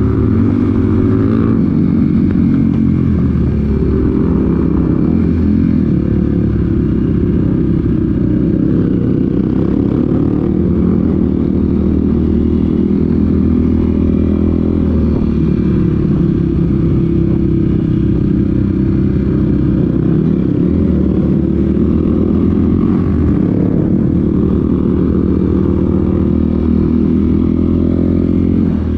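Off-road vehicle engine running steadily under way on a trail ride, its pitch rising and falling gently with the throttle.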